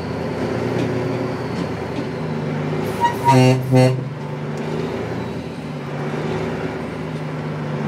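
Dump truck engine running steadily, with two short blasts of the truck's horn about three seconds in, sounded to scare a fox out of the truck's way.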